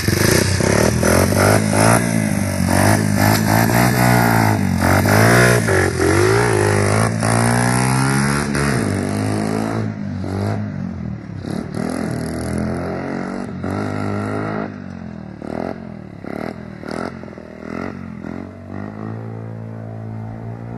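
Small motorcycle engine revving and accelerating hard, its pitch climbing and falling repeatedly. About halfway through it turns quieter and comes in separate bursts of revs.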